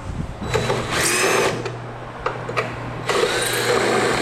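Power drill running in two short bursts of about a second each, backing out screws while a machine is taken apart.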